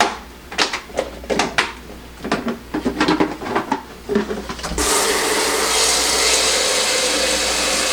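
Several light plastic clicks and knocks as the coffee maker's parts are handled. About five seconds in, a steady pour of water starts as the water reservoir is filled.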